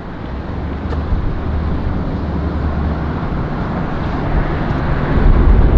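Road traffic passing, swelling as a vehicle draws near toward the end, with wind buffeting the microphone in a low rumble.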